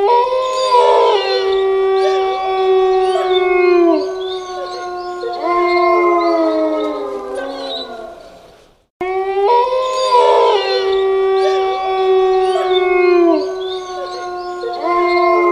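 A pack of wolves howling in chorus: several long howls overlap at different pitches, each held and then falling away at its end. The same stretch of howling repeats about nine seconds in.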